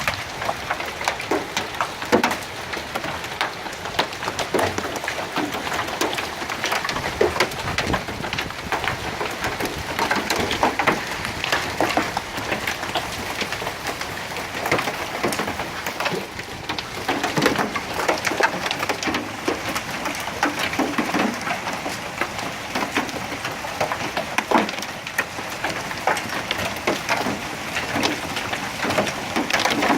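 Heavy hail falling: a dense, steady clatter of hailstones striking hard surfaces, with many sharp individual knocks standing out.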